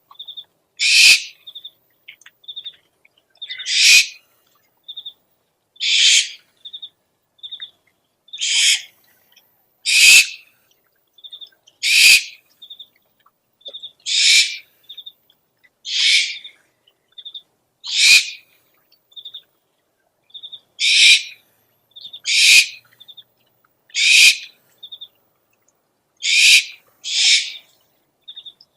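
Owl lure recording: a harsh screeching owl call repeated about every two seconds, with short high pips, often in pairs, between the calls.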